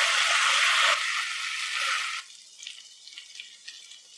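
Pepper chicken sizzling in the pan, a steady hiss that cuts off about two seconds in, leaving faint scattered crackles.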